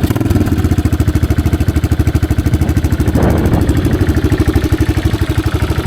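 Yamaha XT600's air-cooled single-cylinder four-stroke engine idling steadily through its homemade exhaust link pipe, a fast, even exhaust beat.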